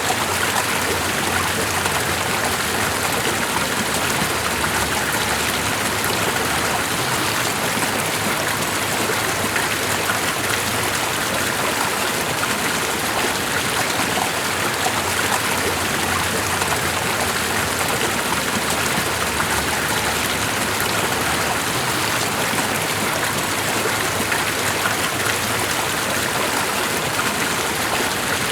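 A stream of running water flowing steadily: an even, continuous rush.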